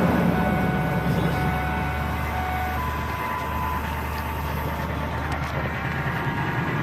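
Ford F-150's 5.4 L Triton V8 running at cold idle just after a start at about −21 °C, steady and slightly settling, with a little knocky sound to it.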